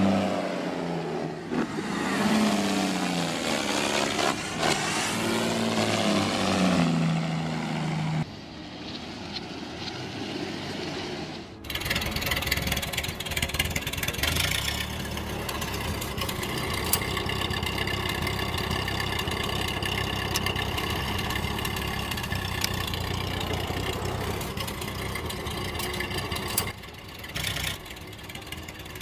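Music with stepping notes for the first several seconds. A little under halfway through, an engine starts abruptly and keeps running steadily.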